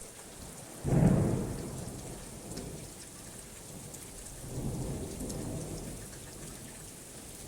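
Steady rainfall, with a thunderclap about a second in that cracks sharply and rumbles away over a couple of seconds. A second, softer roll of thunder follows a few seconds later.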